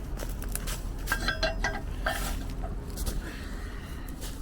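Scattered light clicks and knocks, with a short ringing clink about a second in, over a steady low rumble of wind on the microphone.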